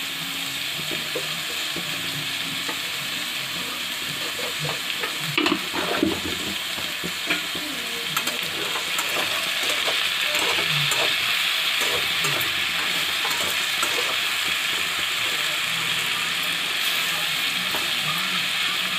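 Jackfruit pieces and tomato frying in oil in a metal kadai, sizzling steadily while a spatula stirs them. A few knocks and scrapes of the spatula on the pan come around six seconds in, and the sizzle grows louder after about nine seconds.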